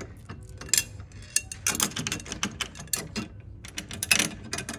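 Small 15 mm screws being driven into the bed frame by hand, a run of irregular clicks and ratcheting rattles from the screwdriver and hardware, with two busier bursts of clicking about two seconds in and near the end.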